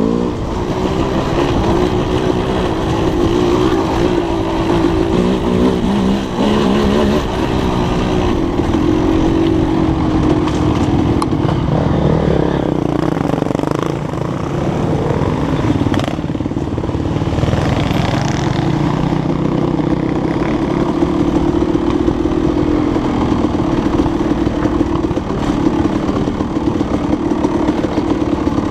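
Dirt bike engine running while being ridden, its pitch rising and falling with the throttle in the first several seconds, then holding steadier.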